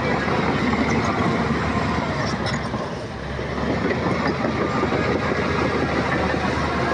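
Heavy diesel earthmoving machinery running steadily with a dense mechanical clatter. It eases off briefly about three seconds in, then comes back up.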